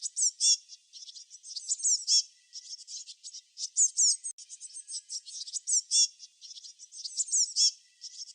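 Small songbirds chirping: quick, high-pitched chirps that sweep downward, several overlapping, with a louder cluster about every two seconds.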